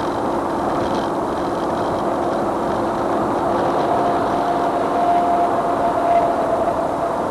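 Steady running noise of a moving vehicle, engine and road noise as a dashcam picks it up, with a held whine that steps up in pitch about halfway through.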